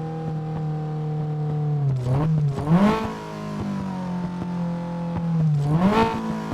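Toyota Celica engine running with its pitch sagging, then rising sharply twice, about three seconds apart.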